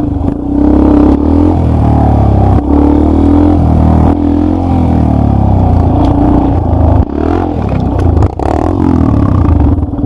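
Dirt bike engine revving up and down repeatedly under load, its note rising and falling as the throttle opens and closes, with a few clattering knocks.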